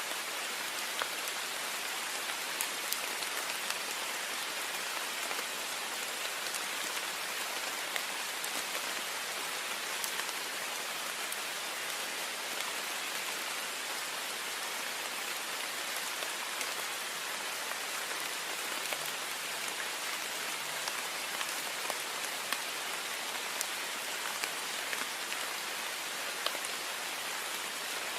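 Heavy rain falling steadily on a window: a dense, even hiss with scattered sharper drop ticks.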